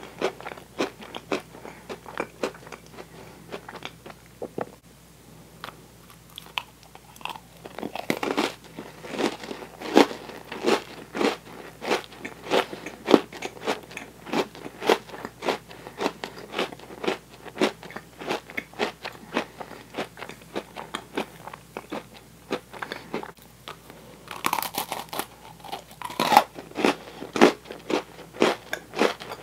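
Close-miked chewing of sticky toasted marshmallow, short wet mouth sounds about twice a second. About 24 s in come a few crisper, brighter sounds, a bite into an Oreo cookie.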